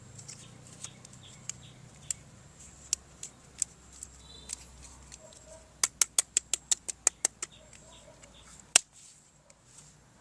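Sharp clicks of plastic toy parts being handled: scattered single clicks, then a quick run of about a dozen clicks, around eight a second, some six seconds in, and one loud click near the end.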